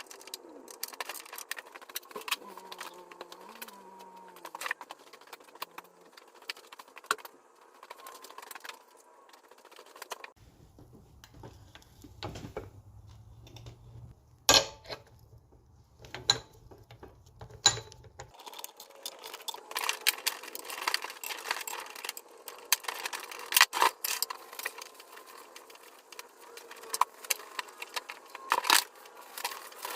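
Hand tools and small metal parts clinking and tapping during engine assembly work, in scattered irregular clicks that get busier and louder in the last third. A low hum runs under them for several seconds midway, then cuts off suddenly.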